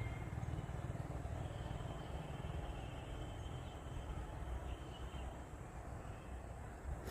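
Outdoor field ambience: a steady low rumble with a few faint, thin high-pitched calls, and a short click at the very end.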